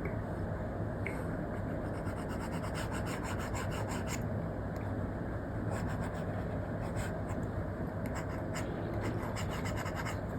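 Apple Pencil tip scratching and rubbing in quick strokes on a paper-like matte screen protector on an iPad, in bursts of hatching. Underneath is a steady low background noise.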